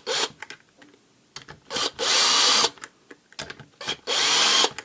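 Cordless screwdriver/drill running in two short bursts, the longer about two seconds in and another near the end, unscrewing the pump housing screws of a Karcher K5 pressure washer, with light clicks of the tool and parts being handled between runs.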